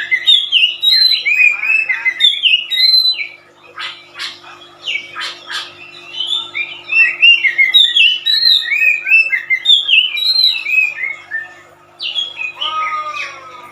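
A songbird singing fast phrases of short, high, down-slurred chirps, with a few sharp harsh notes about four to five seconds in and a lower falling call near the end.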